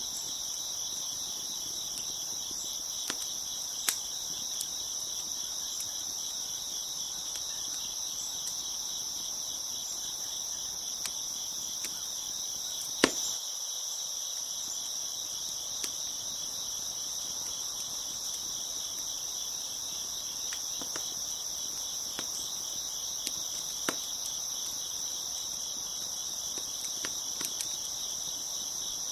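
Crickets chirping in a steady, dense chorus, with a few sharp pops and crackles from a wood fire scattered through it, the loudest about halfway through.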